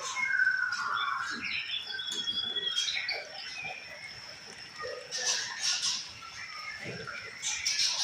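White-rumped shama at its bathing pool: a few whistled, gliding notes in the first three seconds, then splashing of water as it bathes, heard in short spells around the middle and again near the end.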